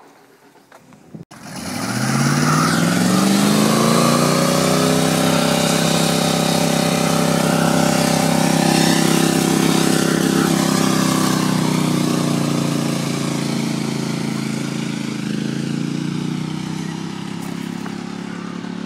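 Pickup truck's V8 engine revved up hard about a second in and held at high revs for several seconds, then easing slowly down near the end.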